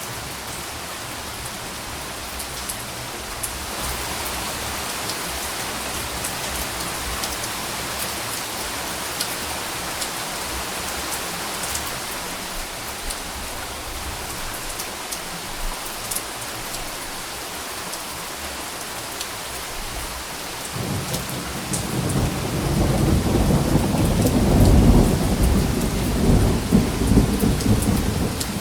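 Steady rain falling, with scattered drops ticking. About three-quarters of the way through, a low rumble of thunder builds and becomes the loudest sound, still rumbling at the end.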